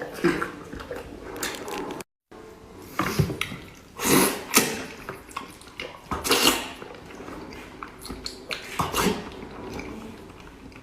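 A person eating close to the microphone: irregular wet chewing, smacking and sucking noises. There is a brief cut to silence about two seconds in.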